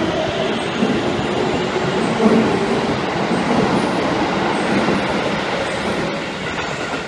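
Toei Asakusa Line 5300-series electric train pulling out and picking up speed past the platform: the traction motors whine with shifting tones over the rumble of wheels on rails. The noise eases off near the end as the last car goes by.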